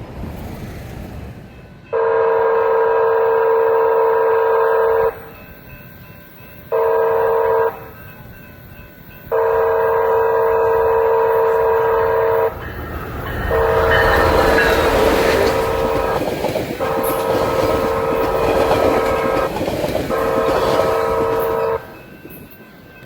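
A passing train's multi-note chime horn sounds six blasts: a long one, a short one, then three long ones and a final shorter one. In the second half the train's wheels and cars rush and clatter past under the horn.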